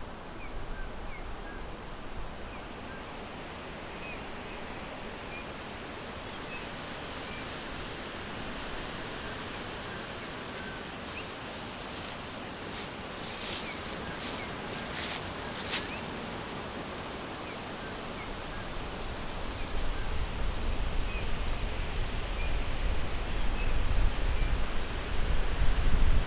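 Forest ambience: a steady rustling hiss of wind through foliage, with faint, scattered small bird chirps. A few short crackles come around the middle, and a low rumble builds over the last third.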